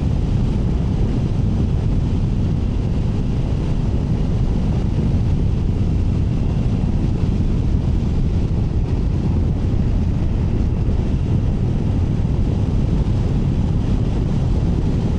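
Triumph Tiger 900 Rally Pro motorcycle riding at a steady pace, its three-cylinder engine running under a steady low rumble of wind buffeting the microphone.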